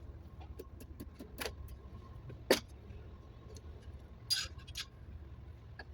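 Scattered metallic clicks and clinks of hand tools and engine parts being handled: several light taps and two sharper clinks about two and a half and four and a half seconds in, over a low steady hum.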